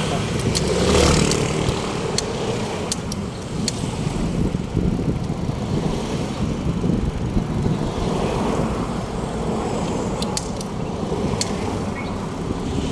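Street traffic with a steady low rumble, and scattered light clicks and rattles, a few near the start and more near the end.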